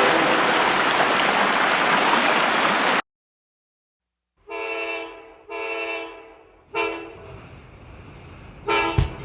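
Loud steady rail noise of a train passing close, cut off abruptly about three seconds in. After a short silence, a train's multi-tone horn sounds two long blasts, then a short one, and another blast begins near the end.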